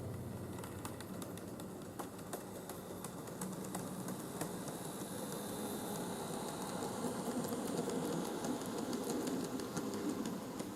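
N-gauge model train, a KATO EF65 1000 locomotive with Re12000 refrigerator wagons, running on track: a steady rumble of wheels and motor with many small clicks from rail joints, growing louder past the middle as it passes.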